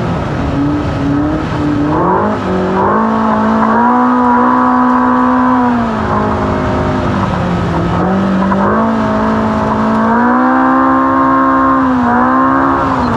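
Ultra4 race car's engine running hard under load. Its pitch climbs about two to four seconds in, falls off around six seconds, climbs again near ten seconds and dips briefly near twelve, over a steady rush of tyre and wind noise.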